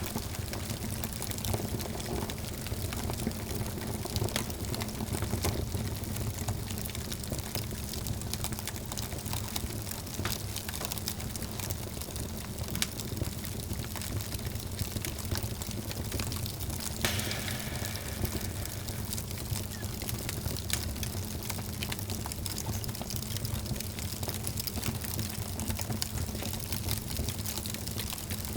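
Wood fire crackling in a fireplace: many small, irregular pops and snaps over a steady low rumble of the burning.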